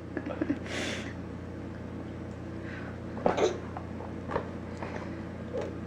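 Quiet room sound: a steady low hum with a few faint knocks and clicks, and a brief, soft voice-like sound a little over three seconds in.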